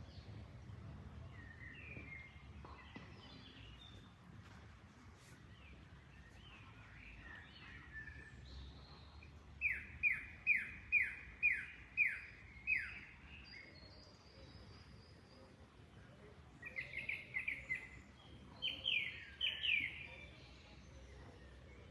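Wild birds singing. A bird gives a loud run of about seven sharp, downward-slurred notes at roughly two a second near the middle, then another faster run near the end, with softer chirps scattered earlier, over a faint steady background noise.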